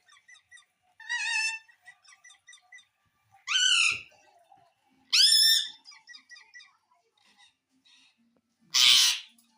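Pet parrot calling: four loud, separate squawks spread through the stretch, the first three pitched and arching, the last a harsh screech near the end, with soft chirps between them.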